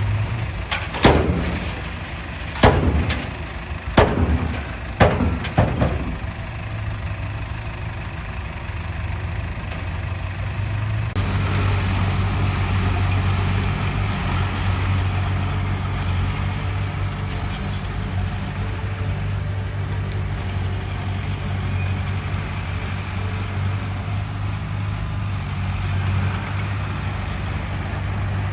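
Heavy earthmoving machine's diesel engine running, with five sharp loud bangs in the first six seconds. About eleven seconds in the sound changes abruptly to a steadier, stronger engine hum.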